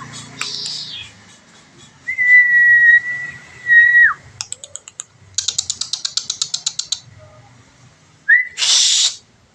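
A person whistles a long, steady single note that drops away at the end, and a common iora answers with a rapid run of short, sharp notes, about nine a second, then a harsh call near the end.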